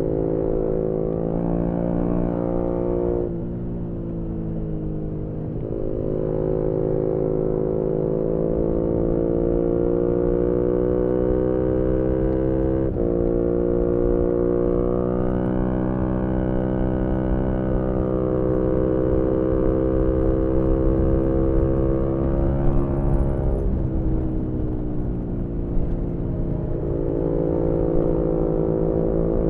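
2018 Yamaha MT-125's single-cylinder four-stroke engine through a GPR aftermarket exhaust, pulling hard at high revs with wind rushing on the microphone. The engine note dips and recovers about three seconds in, jumps with a sudden gear change around thirteen seconds, and eases off and picks up again around twenty-three seconds.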